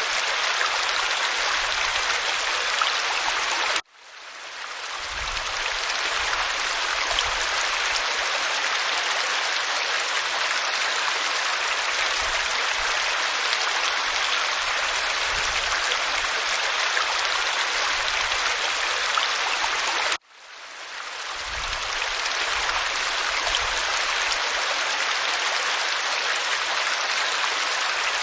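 Waterfall pouring onto rock: a steady rushing and splashing of water. Twice it cuts out suddenly and fades back in over a couple of seconds.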